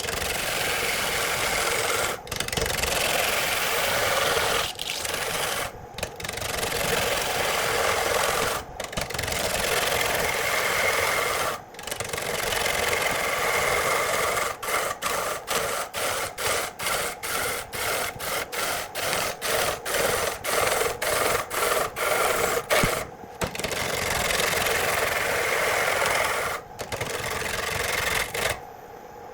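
Abrasive rubbing on wood, a steady scratchy noise. In the middle it breaks into quick regular strokes, about two to three a second.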